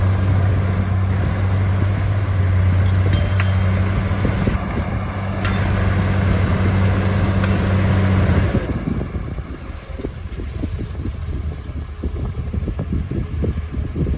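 Heavy diesel earthmoving machine running with a steady, loud engine drone. About two-thirds of the way through, the engine note falls away into a lower, rougher rumble with irregular rattling and knocking.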